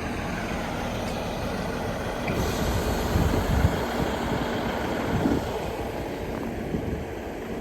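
Diesel train running, a steady engine rumble with a few louder low thuds.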